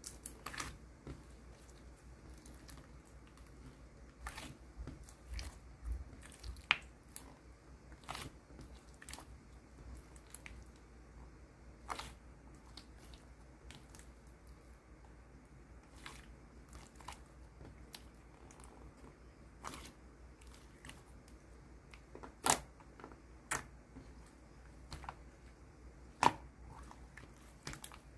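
Irregular sharp clicks and crisp crunching sounds close to the microphone, a few of them much louder than the rest, over a faint steady background.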